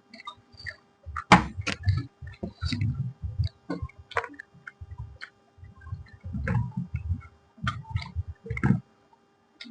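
Close-up eating sounds: someone chewing puri with potato curry, with irregular sharp clicks and crunches and wet mouth smacks. A faint steady hum runs underneath.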